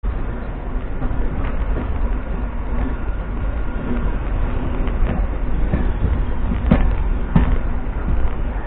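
MEMU electric train running along the track: a steady rumble, with two sharp knocks about half a second apart some seven seconds in.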